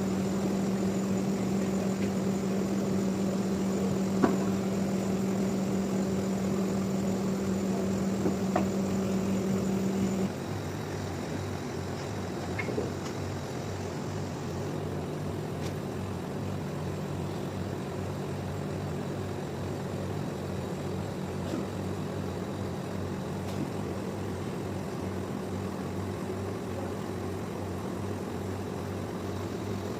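Sawmill machinery running with a steady mechanical hum. About ten seconds in it drops in pitch and loudness to a lower, pulsing hum, with a few faint knocks.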